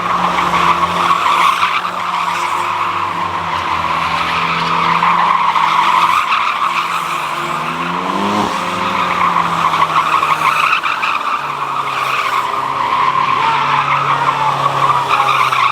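A car's tyres squealing continuously as it spins them, with its engine revving underneath; the engine pitch climbs and falls back about eight seconds in.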